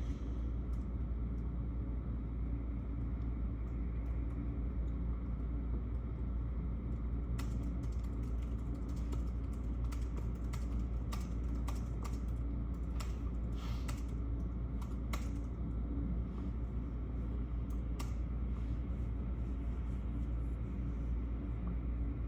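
Typing on a computer keyboard: irregular key clicks that start about a third of the way in and stop a few seconds before the end, over a steady low rumble.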